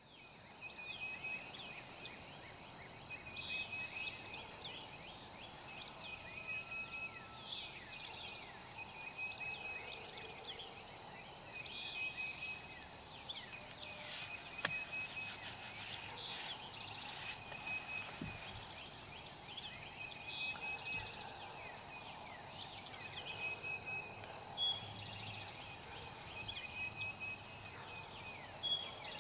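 Insects trilling in one continuous high-pitched drone that breaks off briefly now and then, with many birds chirping over it.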